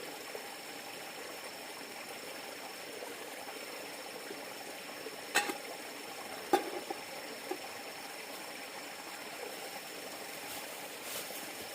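River water flowing steadily, with a faint steady high tone over it. Two sharp knocks cut through it about five and a half and six and a half seconds in.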